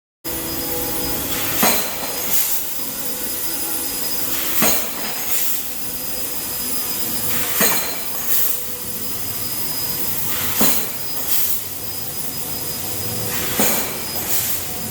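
Industrial laser cutting machine with a chain-driven stock feeder running: a steady hiss with faint whining tones, broken about every three seconds by a sharp loud hiss followed by a weaker one under a second later, repeating in a regular cycle.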